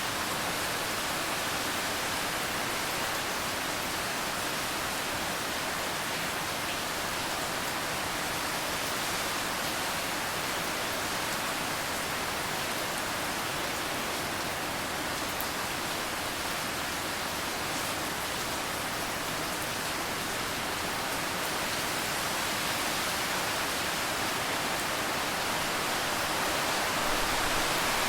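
Steady rain falling, an even hiss with no distinct drops standing out, growing a little louder near the end.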